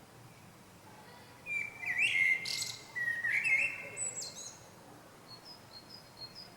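A small bird calling in a loud burst of sharp chirps and short whistled notes, starting about a second and a half in and lasting about three seconds. Fainter chirps follow near the end.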